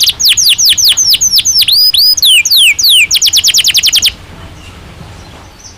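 Domestic canary singing. It gives a run of quick, high whistles that sweep downward, then a few slower falling glides, then a fast trill of repeated notes. The song breaks off about four seconds in.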